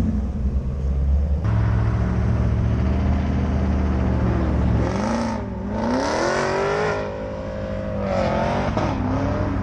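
A car engine running at a steady low pitch, then revving about five seconds in: the pitch climbs, holds briefly and climbs again near the end.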